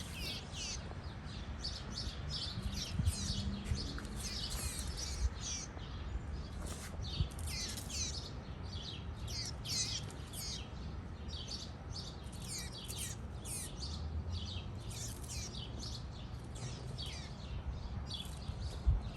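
Baby bird chirping over and over: short, high chirps that fall in pitch, a few each second, with no let-up.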